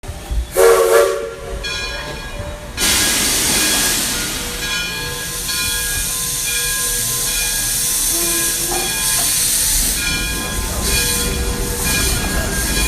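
A train: a short pitched whistle or horn blast about half a second in, then the train running with a steady hiss and rolling noise.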